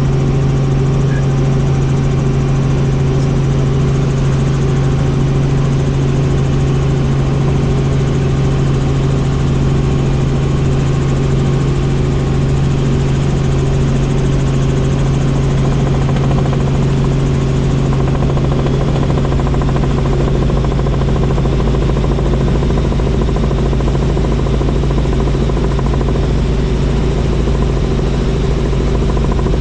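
Helicopter in flight: steady engine and rotor noise with a strong, even hum. The low rumble grows heavier about two-thirds of the way through.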